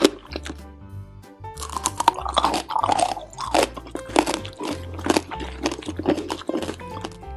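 Crisp crunching bites and chewing of a candied strawberry skewer's hard sugar shell, a rapid run of crackly crunches, over background music.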